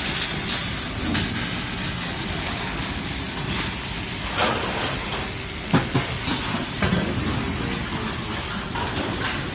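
Robot welding cell with dust extraction: a steady hiss with scattered sharp crackles and clicks, the crackling sharpest about halfway through.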